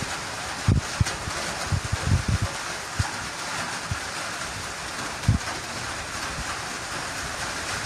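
Heavy rain falling steadily in a forest, a constant hiss, with irregular low buffets of wind on the microphone.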